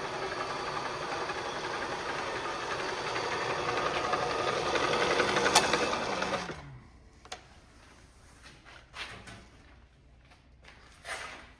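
Bridgeport vertical milling machine's three-phase spindle motor running steadily. It is switched off with a sharp click a little past halfway and winds down with a falling whine. Light scattered knocks and clicks follow.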